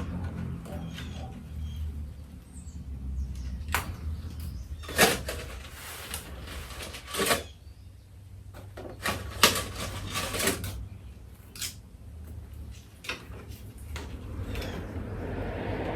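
Scattered clicks, knocks and short scrapes from hands handling and fastening a plastic Halloween animatronic prop, over a steady low hum. A soft rustle comes near the end.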